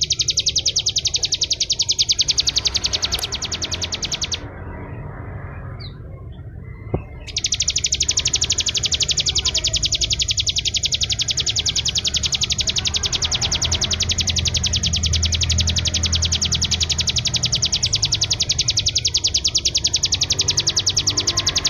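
Bar-winged prinia singing a long, very fast rattling trill of high notes. It breaks off for about three seconds, a few seconds in, then starts again and runs on without a pause, over a low rumble.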